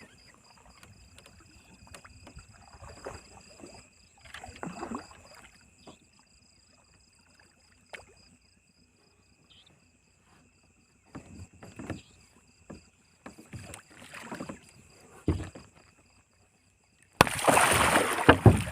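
Water splashing and sloshing in scattered short bursts, with a loud, sustained rush of splashing in the last second and a half. Steady high-pitched tones run underneath.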